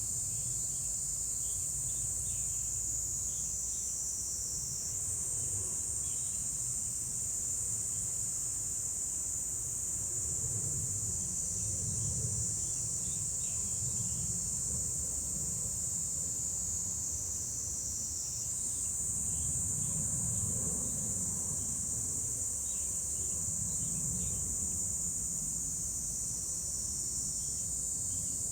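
A chorus of insects calling: a continuous high-pitched trill that shifts slightly in pitch as several callers overlap, with fainter chirps below it and a low, uneven rumble underneath.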